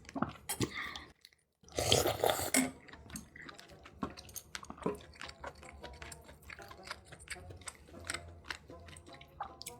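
Close-miked chewing and biting of food, with many small wet, crunchy clicks. A short silent gap about a second in is followed by a louder bite or crunch about two seconds in.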